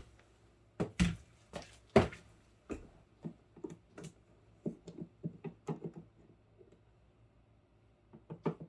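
Knocks and clicks of parts being handled while the inside of a Samsung Zipel refrigerator's fridge compartment is taken apart: two sharp knocks about one and two seconds in, then a run of lighter clicks that dies down for the last couple of seconds.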